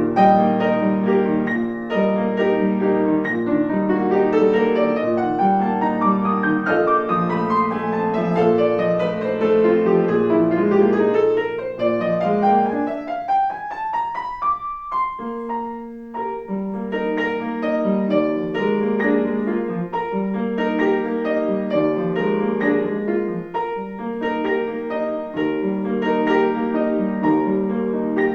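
Piano playing a classical piece. About halfway through, a rising run of quick notes leads to a short break, then the playing resumes with repeated chords.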